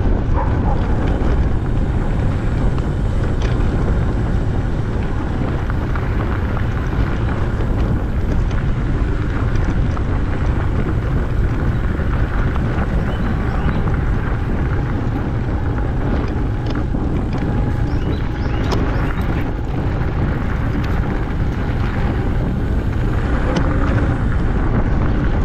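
Steady low rumble of wind buffeting the microphone and tyre noise from a bicycle rolling along a paved trail.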